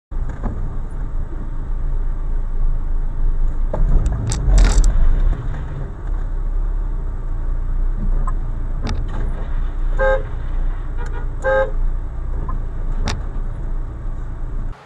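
Car driving, with steady engine and road rumble, a loud thump about four and a half seconds in, and two short car-horn honks about ten and eleven and a half seconds in.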